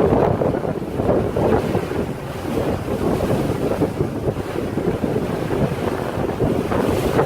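Wind buffeting the microphone on a moving boat, over a steady rush of water.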